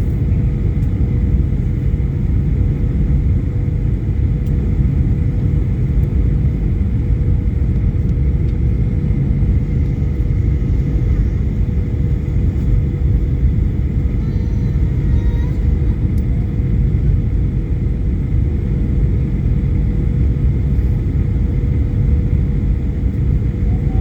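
Steady low rumble of a vehicle in motion, with a constant hum over it.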